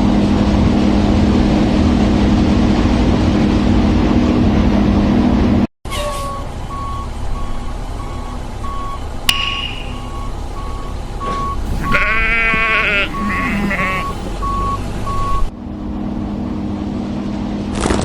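A steady, loud vehicle engine drone that cuts off suddenly; in its place comes an even run of short high beeps, like a reversing alarm, with a wavering cry about twelve seconds in, before the engine drone returns near the end.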